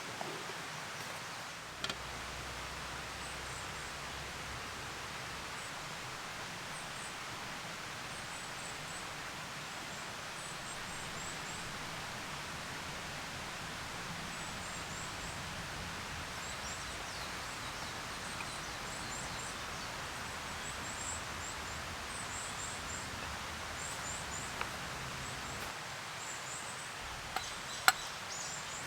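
Steady rain falling in woodland, with short high bird chirps coming and going throughout. A couple of sharp clicks, one about two seconds in and one near the end.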